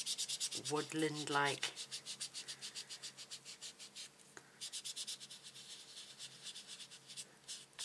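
Ink sponge dauber rubbed back and forth over embossed cardstock in quick repeated strokes, a rapid, even scratching rhythm that breaks off briefly about four seconds in.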